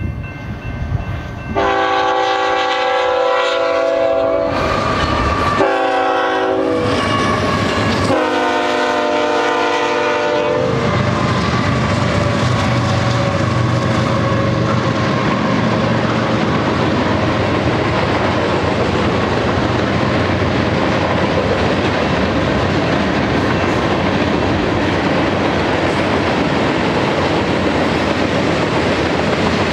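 Multi-chime air horn of a BNSF freight train led by GE ET44C4 diesel locomotives, sounding three blasts (long, short, long) as a warning for the grade crossing, the last ending about ten seconds in. Then the locomotives and the rolling freight cars make a steady, loud rumble with wheel clatter on the rails.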